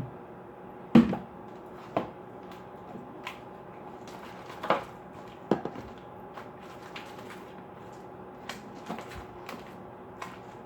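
A spoon knocking and scraping against a bowl as slime is stirred, in irregular sharp clacks, the loudest about a second in.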